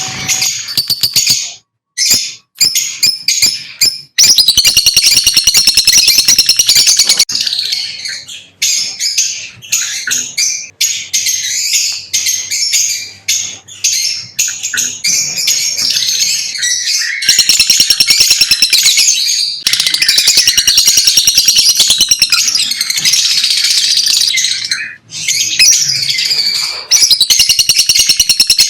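Lovebirds chirping loudly in rapid, high-pitched runs of calls, almost without pause, breaking off briefly a few times.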